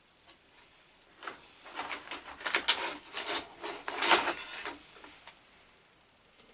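Small metal parts rattling and clinking together in a dense run for about four seconds, as screws or fittings are rummaged and handled, loudest in the middle.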